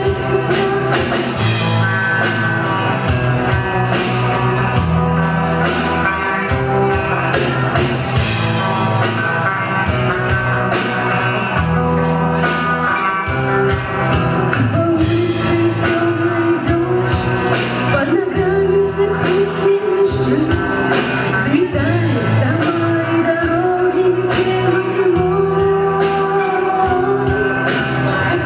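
Live rock music: a band with electric guitar, bass and drums playing a steady beat under a singer.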